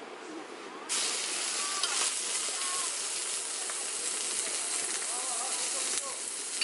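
Mountain stream water rushing in a steady loud hiss that starts suddenly about a second in, with faint distant voices under it.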